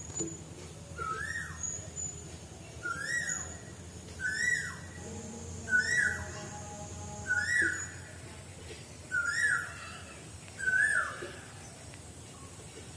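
A bird calling over and over: seven short, sharp notes, each rising then dropping in pitch, roughly every one and a half seconds.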